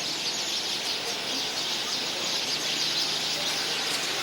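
A flock of birds in a tree chirping all at once, a dense steady chorus of many overlapping short calls.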